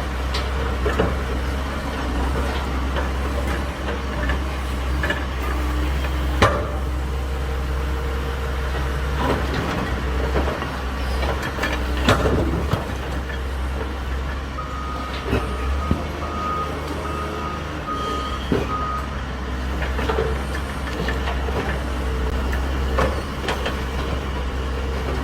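A Develon DX160W-5K wheeled excavator running steadily as its hydraulic nipper crushes material, with sharp cracks and crunches now and then. A warning alarm beeps about half a dozen times in the middle.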